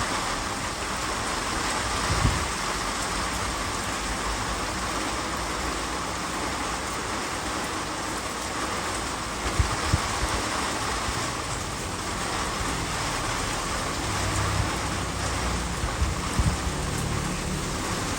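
Heavy rain pouring steadily in a windy storm, with a few brief low thumps: one about two seconds in, two close together near the middle, and more toward the end.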